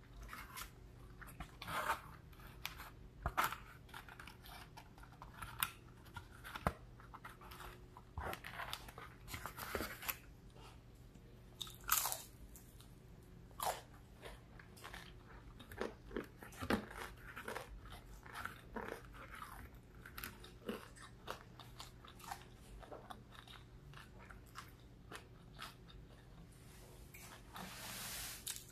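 Close-up mouth sounds of biting and chewing crispy breaded fried fish: irregular crisp crunches and crackles, several a second at times, over a faint low hum.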